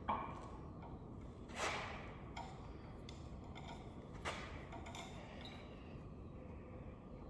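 Hand tools clinking on metal as a socket and breaker bar go onto the LS engine's cylinder head bolts: three sharp clanks, at the start, about a second and a half in and about four seconds in, with faint ticks between.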